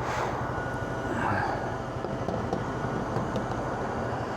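Single-cylinder motorbike engine idling steadily.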